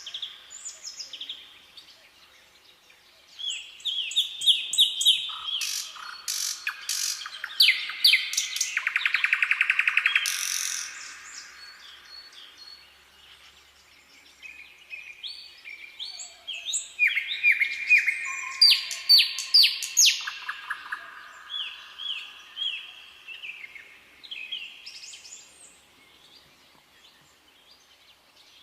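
Songbirds singing: bursts of quick, high chirping notes and a fast trill about nine seconds in, in separate phrases with quieter gaps between them.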